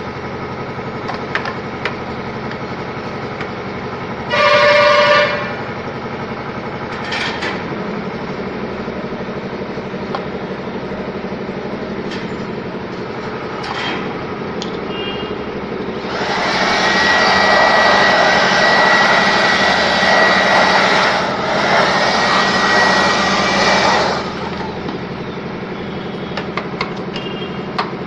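A vehicle horn honks once, briefly, about four seconds in, over a steady background hum. Later a loud, even rushing noise with a thin high whistle runs for about eight seconds, with a short break in the middle.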